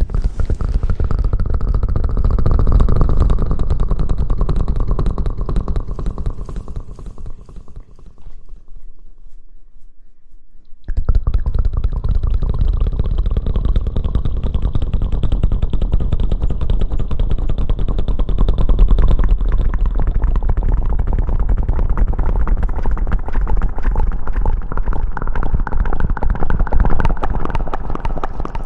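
Close-miked rubbing and scratching on the microphone, a dense crackling rustle full of small clicks. It fades and almost stops about eight seconds in, then starts again abruptly near the eleven-second mark.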